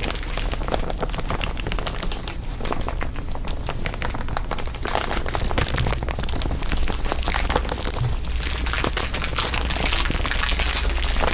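Layered crinkling, dense and irregular crackles throughout, over a steady low hum.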